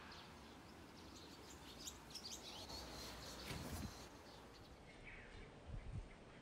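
Small birds chirping faintly, a quick run of short high chirps over the first few seconds and a few more near the end. Two brief low thumps about three and a half and six seconds in.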